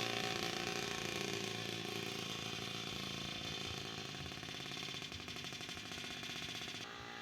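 Puch Pony Express moped's small two-stroke engine running, its pitch shifting and its sound slowly fading.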